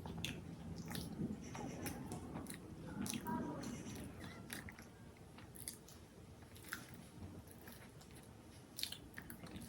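A person chewing and biting food close to the microphone, with small irregular crunches and wet mouth sounds.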